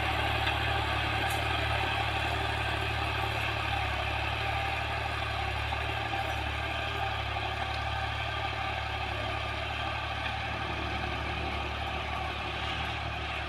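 Al-Ghazi New Holland 640 tractor's diesel engine running steadily under load while pulling a harrow through the soil, slowly fading a little.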